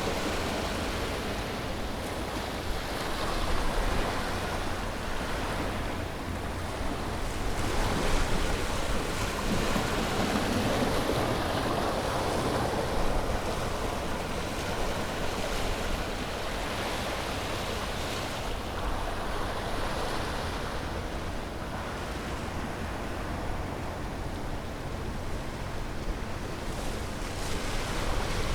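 Ocean waves breaking and washing on a shore, a steady surf rush that swells every few seconds as waves come in, over a low rumble.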